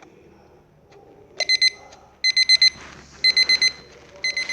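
Electronic alarm beeping: quick high-pitched beeps in groups of about four, each group about a second apart, starting about a second and a half in.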